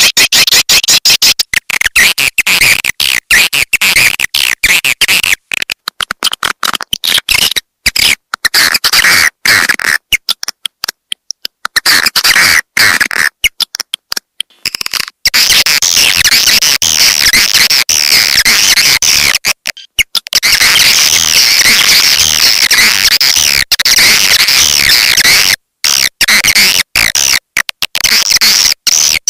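Swiftlet lure call: dense, shrill twittering chirps of swiftlets, chopped by many abrupt brief dropouts, thinner and more broken for a stretch in the middle.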